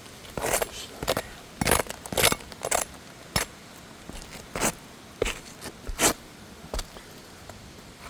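Asphalt roof shingles being handled and slid back into place over a brittle old organic shingle layer: a string of short, irregular scrapes and crackles, about ten in all.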